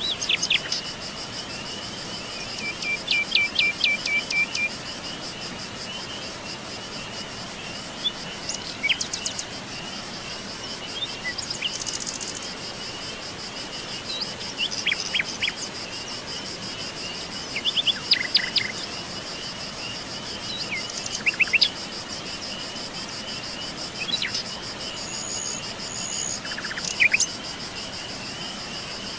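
A steady chorus of crickets trilling, with birds calling and chirping on and off over it: a run of quick repeated notes a few seconds in, then short chirps and calls scattered through the rest.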